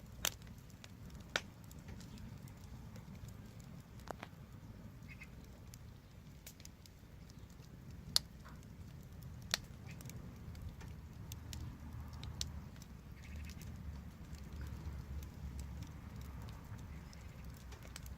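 Wood fire crackling: scattered sharp pops and snaps of burning wood, the loudest about eight seconds in, over a steady low rumble that grows a little in the second half.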